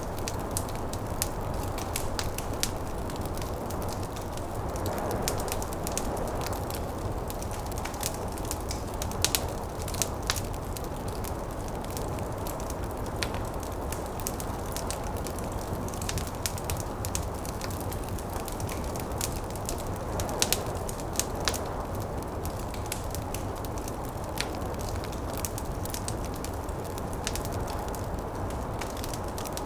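Wood fire crackling, with frequent sharp pops and a few louder snaps about nine seconds in and again around twenty seconds in. Under it runs a steady low rush of snowstorm wind that swells twice.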